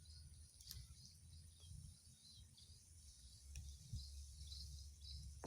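Faint outdoor ambience: short high chirps repeating about twice a second over a low rumble, with a couple of faint clicks.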